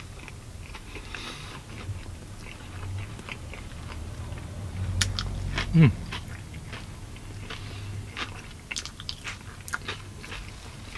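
A person biting into and chewing a steak and cheese sub: wet mouth clicks and smacking, busiest near the end, with a short loud falling vocal 'mm' about six seconds in.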